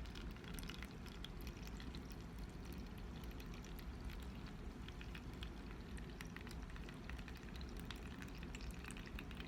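Dirty wash water draining out of a small makeup-sponge washing machine: a faint, steady trickle and pour with many small drips and splashes.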